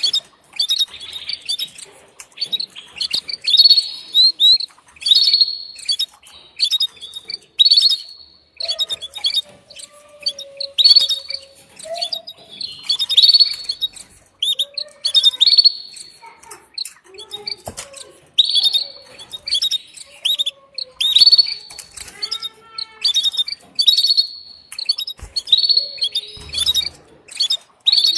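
Female canary calling to a male for mating: short, high chirps in quick clusters, repeated every second or two.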